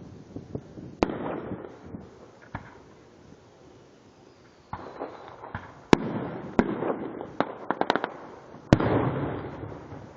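Fireworks going off: a series of sharp bangs, each trailed by a rumbling echo, with a quick run of crackling pops just before eight seconds in. The loudest bangs come about six seconds in and near the end.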